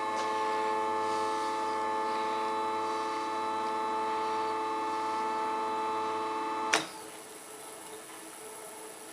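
Electric feed motor of a homemade mini lathe whining steadily at one pitch as it drives the axis inward, then stopping suddenly with a click about seven seconds in, leaving a faint hum.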